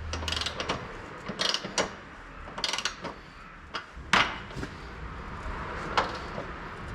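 Socket ratchet clicking in short bursts as suspension member bolts are worked, with single sharp metal knocks between, over a low steady hum that drops out about a second in and returns after four seconds.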